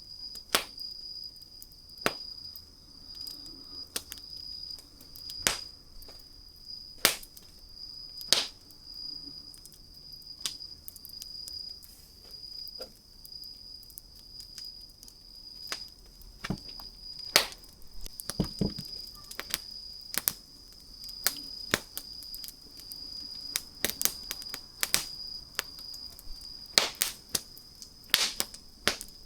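Wood campfire crackling, with sharp irregular pops and snaps of burning wood over a faint hiss. A steady high thin tone sounds under the fire throughout.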